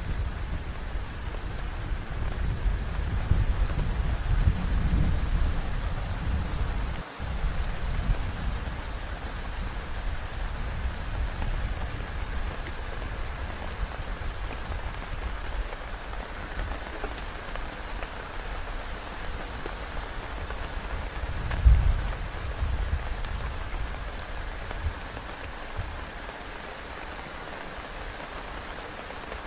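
Heavy rain falling steadily on a tent. Low rumbles swell during the first several seconds and again about two-thirds of the way through, the loudest about 22 seconds in.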